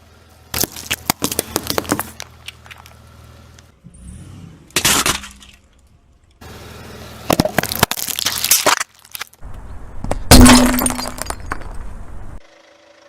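Brittle objects cracking and crunching as a car tyre crushes them, in four separate bursts of crackling; the last, about ten seconds in, is the loudest, with a low thump.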